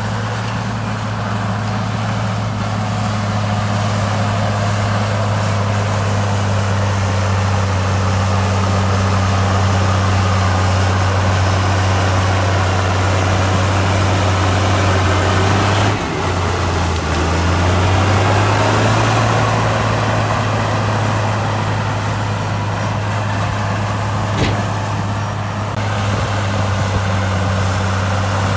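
Heavy diesel engine of earthmoving equipment running steadily with a low drone. Just past halfway its speed drops briefly, then picks back up. A short sharp click sounds near the end.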